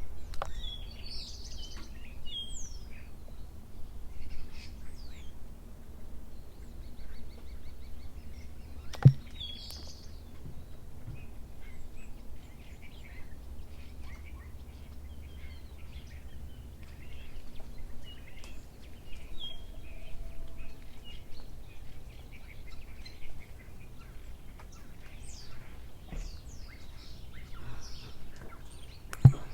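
Small birds chirping and calling on and off over a steady low background hum. A sharp click or knock sounds about nine seconds in, and a louder one comes near the end.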